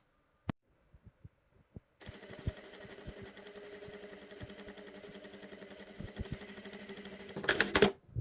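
Straight-stitch sewing machine running steadily for about five seconds, stitching a seam, after a few faint clicks; it ends with a short louder burst.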